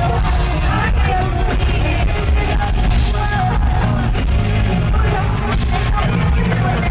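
Live pop concert in an arena: loud amplified music with a heavy bass line and singing, with crowd voices mixed in.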